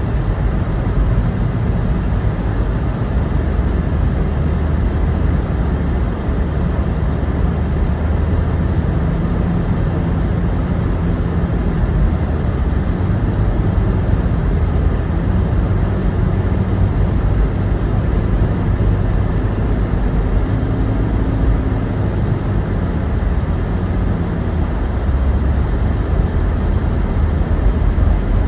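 Car driving uphill: a steady low rumble of engine and tyres on the road, heard from inside the cabin.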